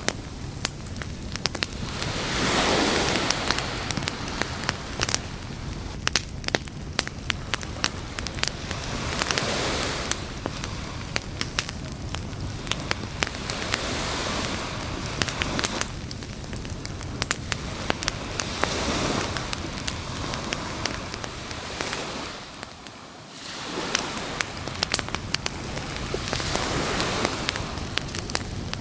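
Campfire crackling with frequent sharp snaps and pops, over surf washing onto a beach that swells up and fades every several seconds.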